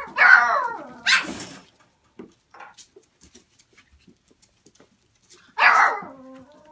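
A dog barking: a falling bark and a sharp bark in the first second and a half, then another bark about five and a half seconds in that trails into a drawn-out whine, with faint clicks between.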